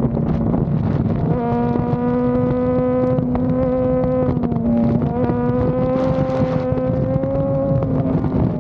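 Honda CBR sport motorcycle engine held at high revs while riding fast, with wind rushing over the microphone. The pitch stays steady with a brief dip about five seconds in.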